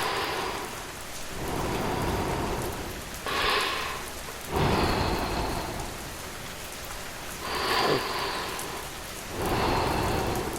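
Steady rainfall, its hiss swelling and easing every couple of seconds, over a low rumble of distant thunder.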